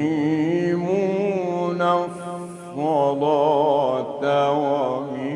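A man's voice in slow, melodic Quranic recitation (mujawwad tajweed), drawing out long wavering held notes in ornamented phrases, with a short break about two seconds in.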